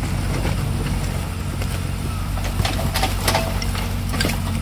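Heavy-machinery diesel engine running steadily, with a few sharp knocks in the second half.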